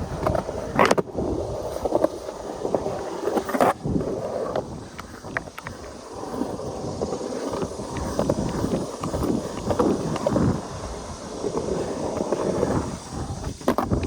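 Skateboard wheels rolling and carving on concrete with a steady rumble. Sharp knocks come about a second in and again near four seconds, with lighter ones scattered through. Wind on the microphone.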